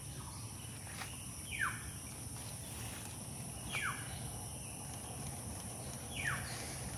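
A bird's short call that falls sharply in pitch, given three times about two and a half seconds apart, over a steady high-pitched insect drone.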